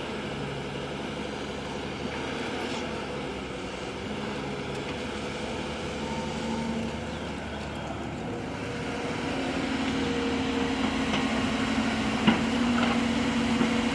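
Heavy diesel machinery engine running steadily, growing somewhat louder from about nine seconds in, with one sharp knock near the end.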